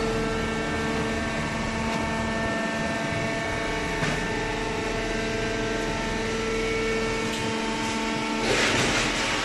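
Baler machine running with a steady mechanical hum. There is a single click about four seconds in and a burst of hiss near the end.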